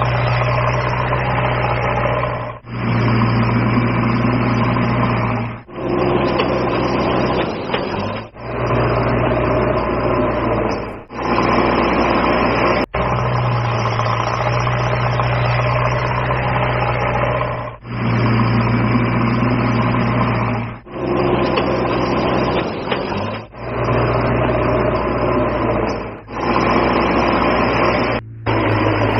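Steady engine-like running hum with a strong low drone, broken by short dropouts every few seconds.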